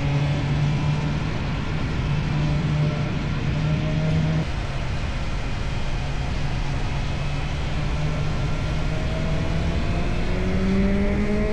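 Motorcycle engine running through an Akrapovic exhaust under way. Its note is steady for the first few seconds, dips slightly about four seconds in, then rises as it accelerates near the end.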